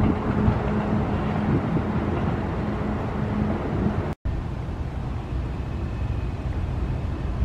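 A passing train's rumble with a steady hum, fading over the first few seconds. After a sudden cut, wind buffets the microphone with a low rumble.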